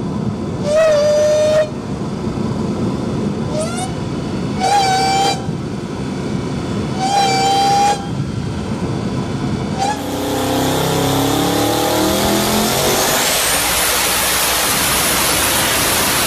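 A car horn honks three times over a steady vehicle rumble. About ten seconds in, a loud, sustained hiss starts, with engine tones that shift in pitch, as of a car being revved hard.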